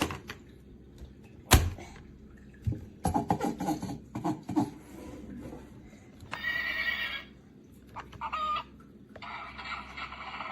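Electronic farm-animal sound effects from a battery-powered toy farm tractor, played in several short separate bursts. There is a sharp click about one and a half seconds in.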